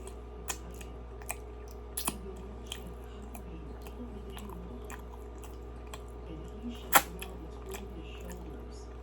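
Close-up mouth sounds of someone chewing soft glazed doughnut: wet smacks and lip clicks at irregular intervals, with one sharper click about seven seconds in.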